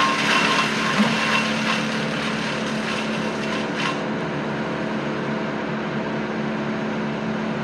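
An engine running steadily at an even pitch, with a thin high whine over it for the first two seconds or so.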